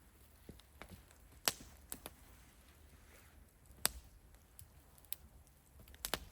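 Scattered sharp knocks: three louder ones a little over two seconds apart, with lighter ticks between them.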